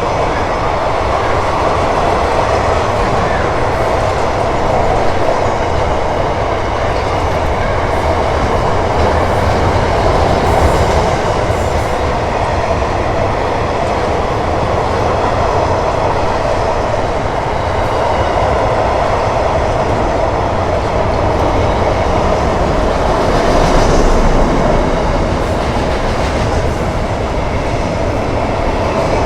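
Intermodal freight train's wagons rolling past, a steady, continuous noise of steel wheels running on the rails.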